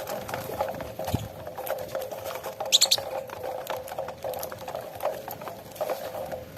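A flock of saffron finches feeding on cracked corn on the ground, making a dense patter of small pecks and scuffles. One short, high chirp sounds about three seconds in.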